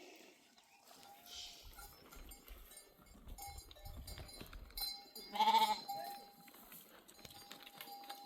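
A sheep bleats once, loudly, about five seconds in, over the faint steady ringing of a herd animal's bell.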